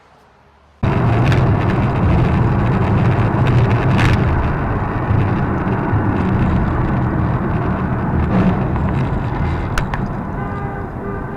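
Steady, loud road and engine noise of a moving car cuts in suddenly about a second in, with a few sharp knocks along the way.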